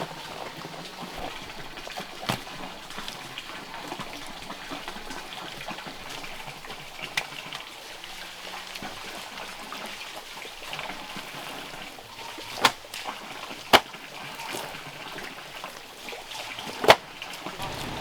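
Steady splashing water, broken by about five sharp knocks, the loudest three in the second half.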